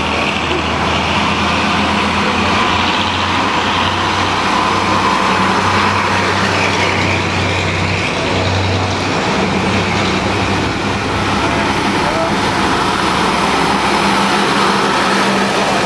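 Engines of historic trucks running, a steady low drone with no breaks.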